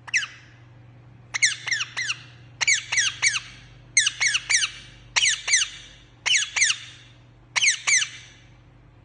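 Green parrot calling: short, shrill, falling squawks in quick clusters of two to four, repeated about every second and a quarter.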